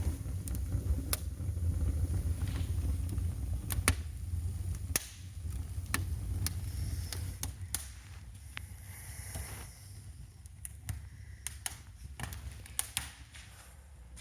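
Wood fire crackling in the firebox of a newly built brick fireplace: irregular sharp pops and snaps over a low rumble that drops away about five seconds in.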